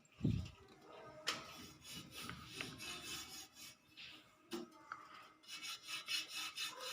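Faint scratching and rubbing noises, with a dull thump at the start and scattered clicks, thickening into a run of scratchy scrapes near the end.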